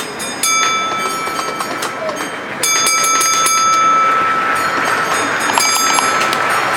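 Model train running on the layout: a steady high-pitched whine comes in about half a second in and grows louder a couple of seconds later, with light clicking over it.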